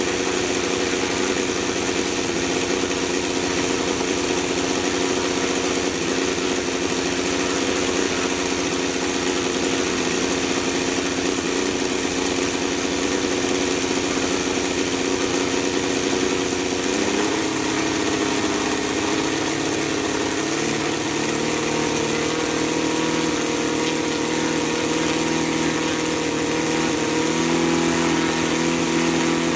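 Saito FG-60R3 60cc three-cylinder four-stroke gasoline radial engine running steadily, spinning its propeller at low throttle. The engine speed steps up about halfway through and again near the end.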